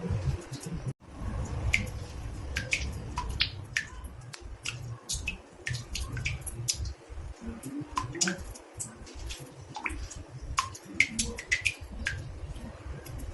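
Water drops falling irregularly into a bathtub: a quick run of small plinks and plops, several a second, over a low rumbling background, with the sound cutting out briefly about a second in.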